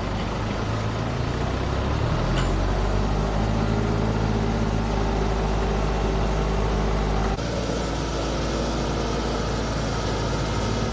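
Engine of a homemade wooden-bodied pickup, an old pickup truck's engine, idling steadily with a low hum. It picks up slightly about two seconds in, and the sound changes abruptly about seven seconds in.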